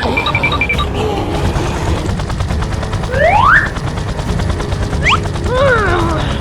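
Cartoon sound effects: a loud, steady low rattling rumble with short rising whistle-like glides about three seconds in and again near five seconds, then a falling-and-rising sweep near the end.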